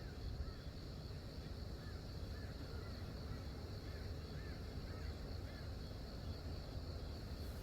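Outdoor mountain ambience: a steady low rumble with a bird repeating short, arched call notes through the middle, over a faint steady high hiss.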